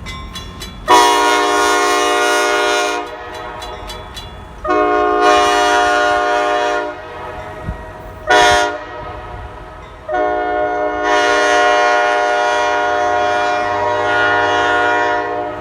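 Locomotive horn of an EMD GP38-2 blowing the grade-crossing signal: two long blasts, one short, then a final long blast of about five seconds. A dying mechanical crossing bell strikes faintly in the first second, and a low diesel rumble rises under the last blast as the locomotive nears.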